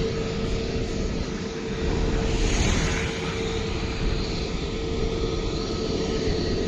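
Jet airliner engines running: a steady low rumble with one held tone, and a rush of hiss that swells about two to three seconds in.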